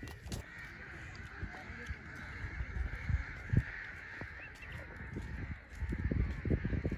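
A flock of birds calling over one another in a steady, continuous chatter.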